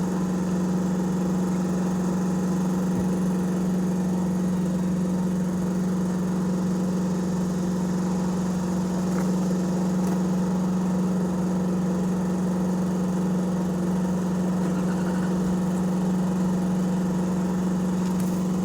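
A machine running steadily, giving a constant hum that neither rises nor falls in pitch.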